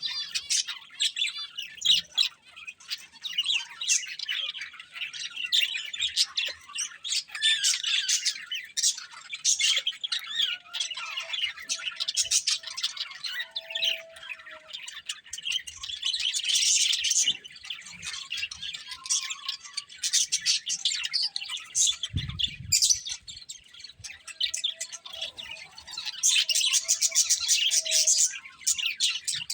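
Budgerigars chattering nonstop: rapid, squawky chirps and warbling, with one brief low thump a little past two-thirds of the way through.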